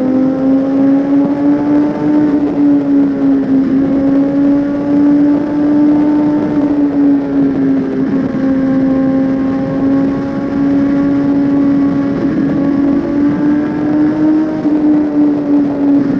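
Suzuki GSX-R1000 inline-four engine running steadily while riding, its pitch drifting gently up and down with small changes in throttle, over a hiss of wind and road noise.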